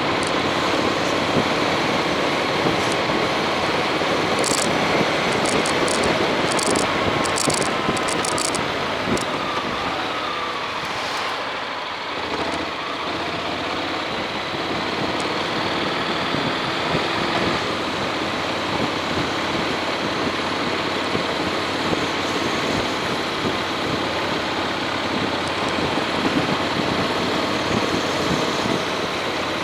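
Honda X-ADV's parallel-twin engine running under way, mixed with heavy wind noise on an action camera's microphone. A few sharp ticks sound between about four and nine seconds in, and around ten to twelve seconds in the sound eases and the engine note falls before it picks up again.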